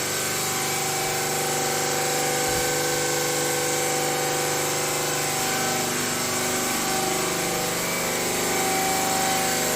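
An electric power tool running steadily, its motor pitch drifting slightly as it works.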